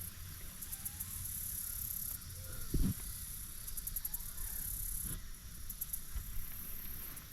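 Insects chirping high and fast in pulsed stretches that start and stop, over a low rumble of wind and handling, with one short thump a little before the middle.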